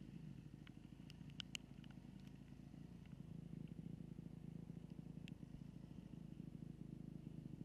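Faint, steady low hum of a dirt-bike engine running, with a few sharp clicks around one to two seconds in and one more near the middle.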